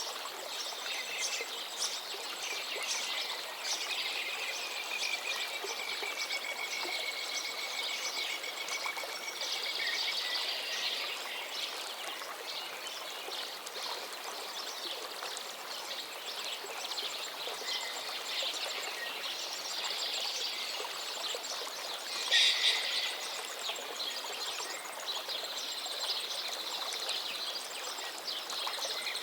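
A river flowing steadily, with several birds singing over it. One bird gives a long even trill a few seconds in, and a loud burst of calls stands out about three-quarters of the way through.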